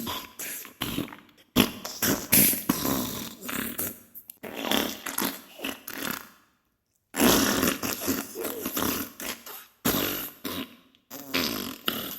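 Diarrhea sound effect: a string of irregular fart bursts of varying length, with a break of about a second just past halfway.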